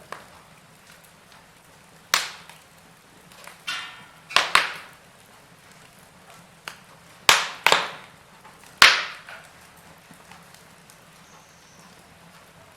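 Wood fire crackling in a fireplace: a handful of sharp, irregular pops and snaps, a second or two apart, over a faint steady hiss.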